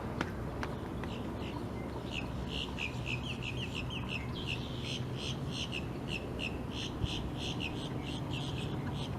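A bird chirping in a rapid run of short, high calls, about three a second, starting about two seconds in, over a steady low background rumble.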